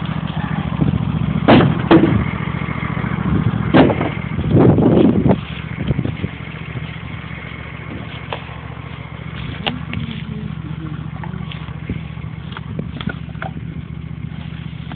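John Deere L111 lawn tractor's 20 hp Briggs & Stratton V-twin running steadily, with several loud knocks and clatters in the first five seconds and lighter clicks after.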